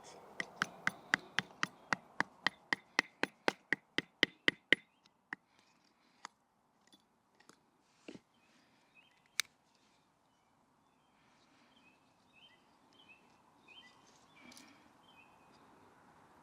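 Rapid run of about twenty light wooden knocks, four or five a second, as a wooden baton taps the spine of a Swiss Army knife blade to drive it through a small piece of wood; then a few scattered knocks, one sharper about nine seconds in.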